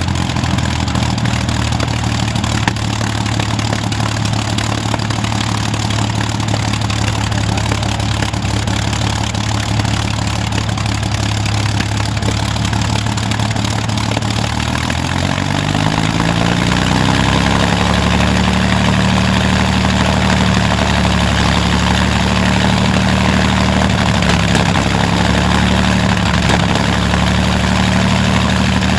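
Rolls-Royce Merlin V12 aero engine running steadily at a low setting, then revving up about halfway through over a couple of seconds and holding at the higher speed.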